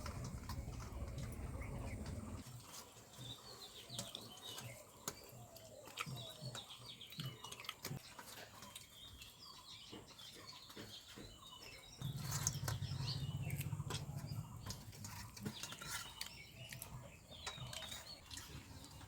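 Small birds chirping, many short twittering calls, with scattered light clicks. A low steady hum sounds at the start and again briefly past the middle.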